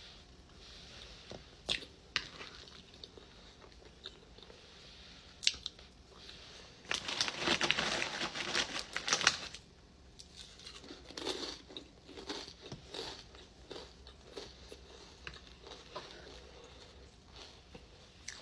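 A person eating a chili dog, chewing with wet smacks and small clicks. About seven seconds in comes a louder stretch of crackling lasting a couple of seconds.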